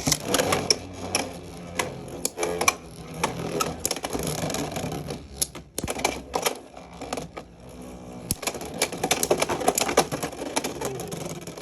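Two Beyblade X spinning tops, Cobalt Dragoon and Tyranno Beat, colliding in a plastic stadium: rapid clattering hits that thin out about six seconds in, then a second flurry of hits.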